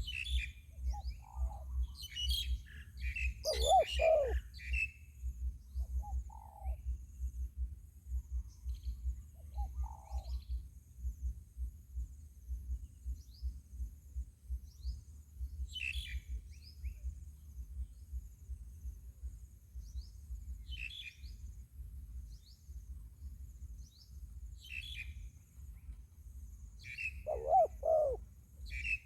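Spotted dove cooing in low, arched notes, a double coo about four seconds in and another near the end, with a few softer single notes between. High, short chirps of small birds come and go throughout, over a low wind rumble on the microphone.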